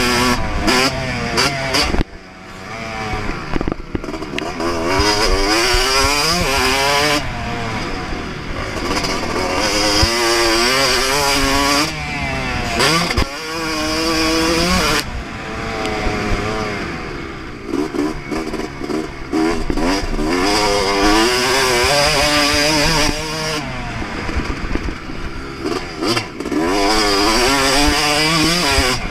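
A 2024 Yamaha YZ250's two-stroke engine at full throttle, revving up repeatedly through the gears with rising pitch. The throttle shuts off briefly several times, about two seconds in, around twelve to fifteen seconds, and near twenty-four seconds, before the engine winds up again.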